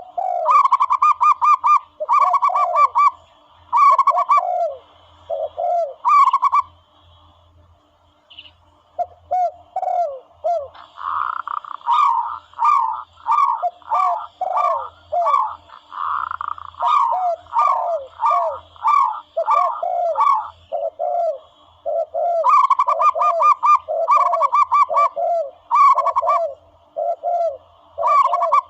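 Doves calling over and over from a hunting lure recording: runs of quick stuttering coos alternate with short falling coo notes, with a brief lull about a third of the way in.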